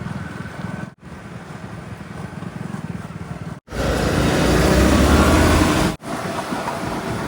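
Heavy vehicle engines running, heard in short clips cut together abruptly. The loudest, from about halfway to near the end, is a deep engine rumble with a wide hiss above it.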